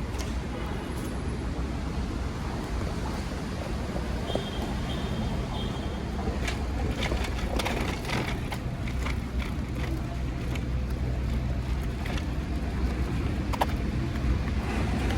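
Airport terminal ambience: a steady low rumble, with three short high beeps about four seconds in and scattered clicks and knocks from about six seconds on.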